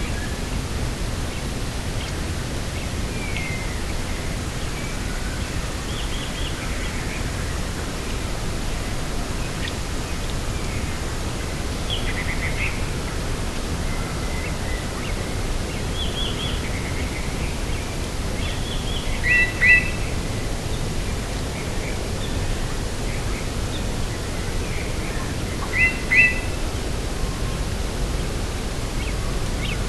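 Steady wind rumble over open ground, with small birds calling now and then: short chirps throughout, and two louder double calls about two-thirds of the way through and a few seconds later.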